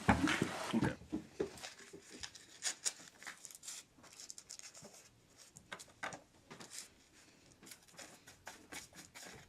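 Scattered small clicks, taps and scrapes of objects being handled close by, louder in the first second and fainter after.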